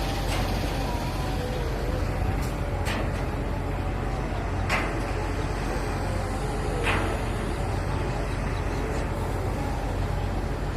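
Steady outdoor background noise with a low rumble and faint distant voices, broken by three short sharp clicks or knocks about 3, 5 and 7 seconds in.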